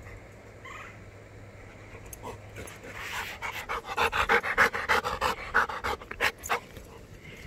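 Chocolate Labrador retriever panting close by, a quick even run of about five breaths a second that starts about three seconds in and stops shortly before the end.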